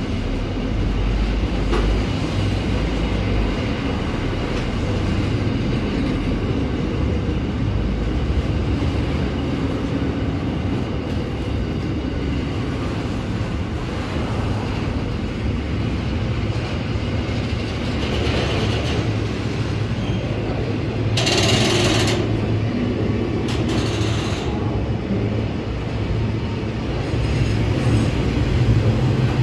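Container wagons of a freight train rolling past close by: a steady rolling noise of wheels on rail. Two short bursts of higher, hiss-like noise stand out about two-thirds and four-fifths of the way through.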